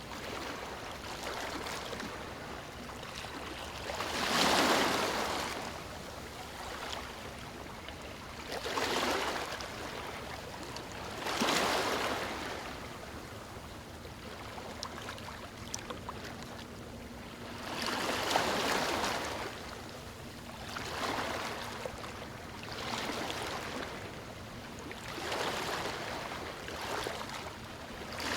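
Small waves washing onto a beach: a steady hiss of water with seven swells of louder splashing, spaced irregularly a few seconds apart.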